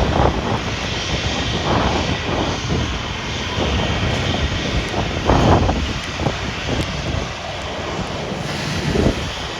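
Aircraft engine running, heard through strong gusts of wind buffeting the microphone, with a louder swell about five seconds in.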